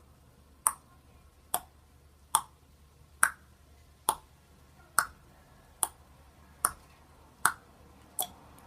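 A sharp click repeating at a very even pace, a little more than once a second, about eleven times in a row.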